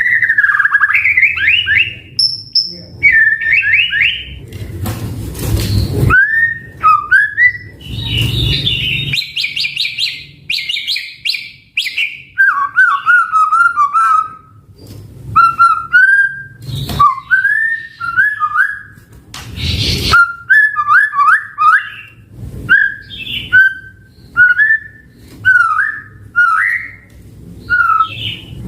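White-rumped shama (murai batu) singing a long, varied song of short whistled phrases, rising and falling notes and rapid trills, broken by a few brief harsh, noisy notes.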